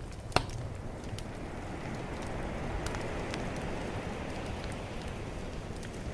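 Bonfire crackling with scattered pops, one sharp pop about half a second in, over a calm ocean wave that swells and washes in from about a second and a half.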